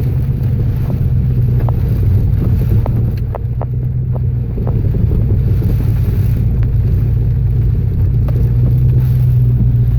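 Vehicle engine running steadily during an off-road drive, with a few light knocks and rattles in the first half.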